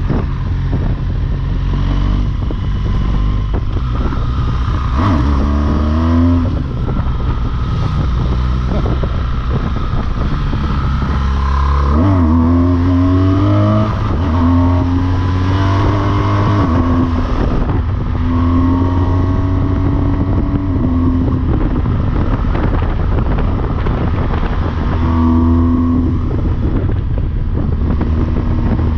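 BMW R1200GS Rallye's boxer-twin engine pulling hard uphill. The revs climb in several rising sweeps with gear changes in between, then hold steady.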